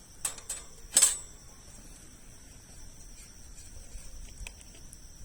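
Campfire of large logs crackling, with a few sharp pops from the burning wood, the loudest about a second in.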